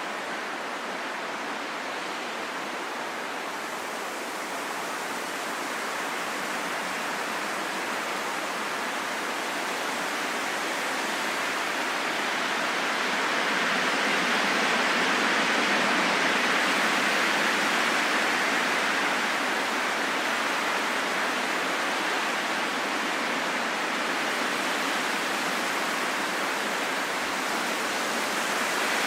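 Steady rain falling in a forest, an even hiss without separate drops that swells louder about halfway through.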